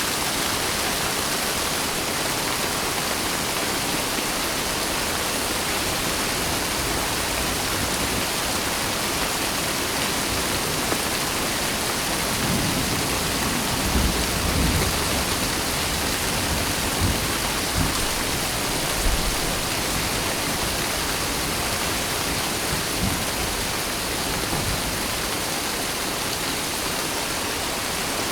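Steady heavy rain, an even hiss with no gaps. A low rumble swells under it about halfway through, with a few sharper low thuds, and a fainter rumble follows a few seconds later.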